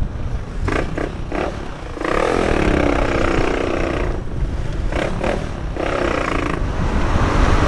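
125cc motorcycle engine revving as the bike accelerates past, under a steady low buffeting of wind on the helmet camera's microphone; the engine note swells about two seconds in and holds for a couple of seconds.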